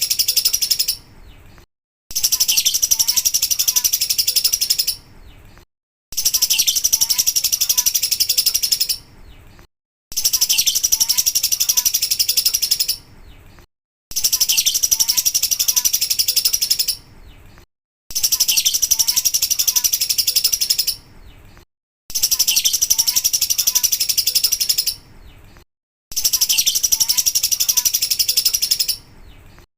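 Lovebird 'ngekek' song: a dense, high-pitched, rapid chattering trill. It comes in bursts of about three seconds, repeated every four seconds with short silent gaps, as in a looped recording.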